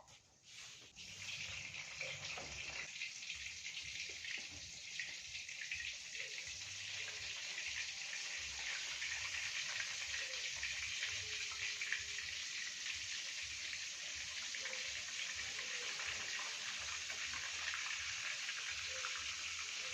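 Tempe frying in hot oil in a pan: a dense, crackling sizzle that starts about a second in and then holds steady.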